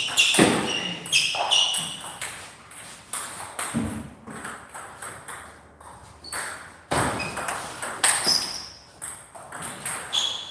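Table tennis rally: the plastic ball clicking back and forth off the bats and table, many quick sharp hits a second or so apart, several with a short high ring.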